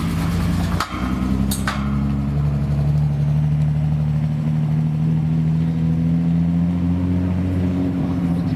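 Car engine running loud and steady, its pitch creeping up slowly over several seconds, with a couple of sharp clicks in the first two seconds.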